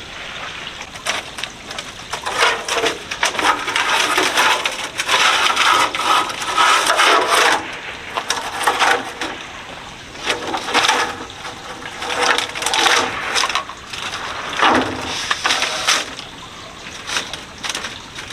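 Split bamboo strips rustling, scraping and clacking as they are woven into a wall panel, in irregular bursts of crackling.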